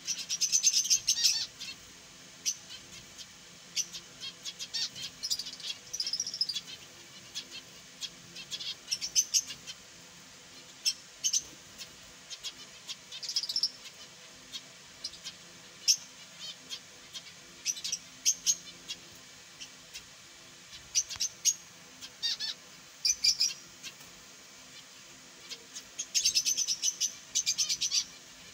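Caged finches chirping in short, high, rapid bursts that come and go in clusters.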